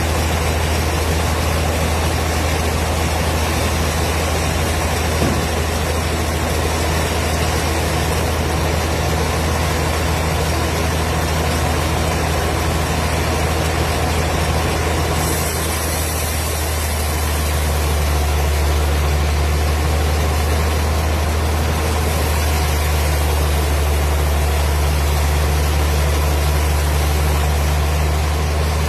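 Wood-cutting machine running steadily with a deep, constant hum under a wide mechanical hiss; the sound shifts and grows slightly louder about halfway through.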